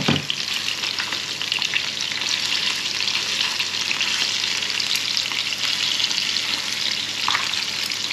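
Crumbed crayfish pieces shallow-frying in hot oil in a frying pan, a steady, dense sizzle and crackle as the pieces are turned with metal tongs. A short knock comes right at the start.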